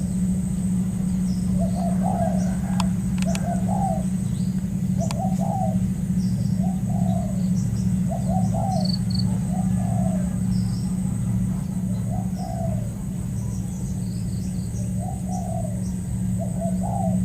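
Spotted dove cooing over and over in short rolling phrases, about one a second, with a few small high bird chirps. Beneath it runs a steady low hum, the loudest sound throughout, and a thin high steady whine.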